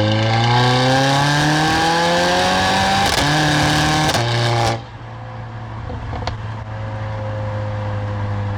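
Stage 2 tuned Mercedes-AMG CLA45's turbocharged four-cylinder engine and loud exhaust accelerating, the pitch climbing for about three seconds, with two quick gear changes. Just under five seconds in the throttle lifts and the sound drops suddenly to a lower, steady drone at light load.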